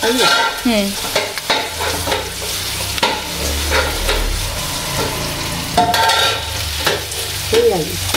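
Food sizzling in hot oil with a steady hiss, with light knife clicks as a green chilli is sliced.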